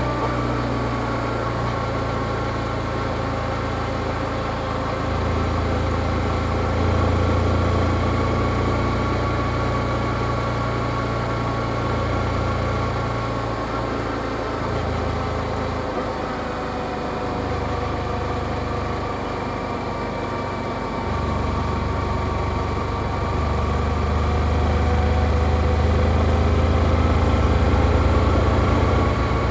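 Yamaha XSR155's single-cylinder engine running through its stock exhaust while riding. The pitch drifts gently up and down with small swells in loudness as the throttle changes, over a low rumble.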